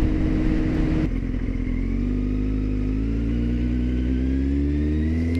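Motorcycle engine running under way. Its pitch steps down about a second in, then rises steadily as the bike accelerates.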